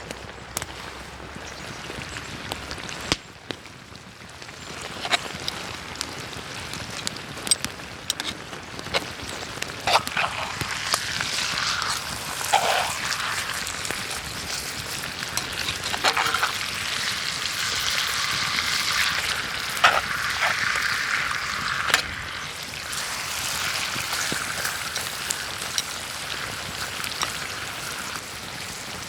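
Food sizzling in a hot pan over a campfire: a steady frying hiss with scattered crackles and pops, growing louder about ten seconds in.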